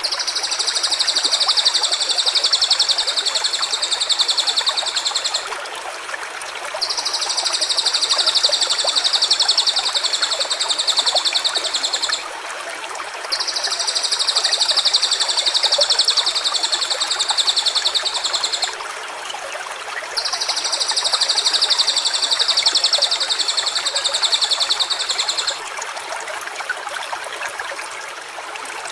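Running stream with four long, high, even buzzing trills of about five seconds each, separated by gaps of about a second and a half.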